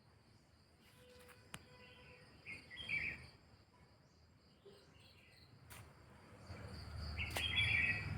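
Outdoor ambience: birds chirping in short bursts twice over a steady high-pitched insect trill, with a couple of sharp clicks and a low rumble building near the end.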